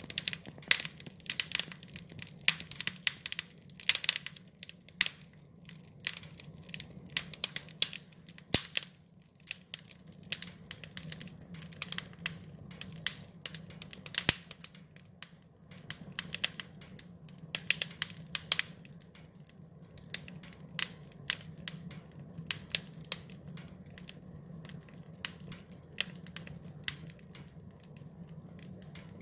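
Wood fire crackling, with many irregular sharp pops and snaps over a low steady hum.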